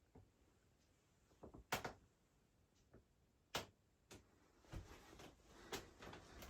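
Faint, scattered small clicks and knocks, about half a dozen spread irregularly over several seconds, with soft handling noise between them.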